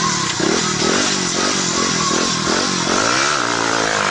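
Small scooter engine revving in repeated short blips, its pitch rising and falling about twice a second, with one longer rev near the end.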